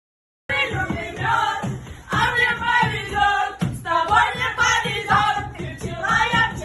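Music with several voices singing together, starting abruptly about half a second in.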